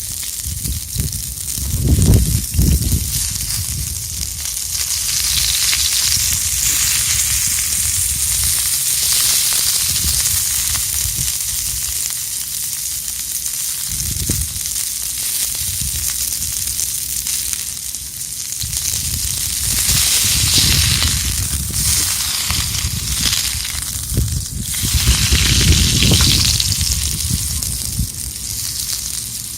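Food sizzling in a pan over a charcoal fire pit, a steady hiss that swells and fades. A few low rumbles come through, the loudest about two seconds in and again near the end.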